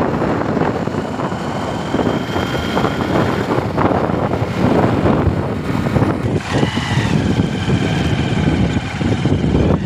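Loud, unsteady rush of wind on the microphone of a moving motorcycle, with engine and road noise underneath.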